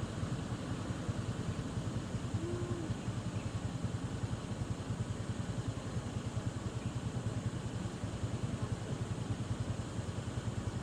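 Motorcycle engine running steadily at riding speed, a rapid even throb under steady road and wind hiss, with one short tone about two and a half seconds in.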